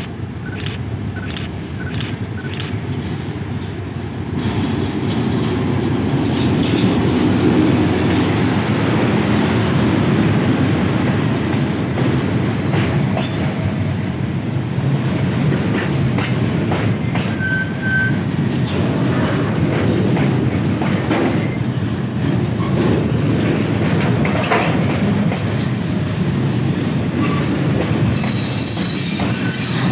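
A diesel-electric locomotive rumbling past close by, then a long train of container flatcars rolling past with a steady low rumble and scattered wheel clicks. The rumble grows louder about four seconds in as the locomotive comes alongside.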